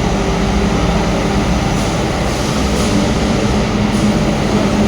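Steady din of a busy exhibition hall, a dense even noise with a low hum running through it that grows stronger in the second half.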